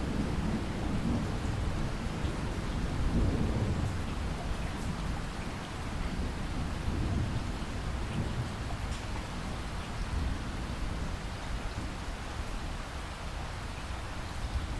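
Steady rain falling, with a low rumble of distant thunder in the first few seconds that fades away.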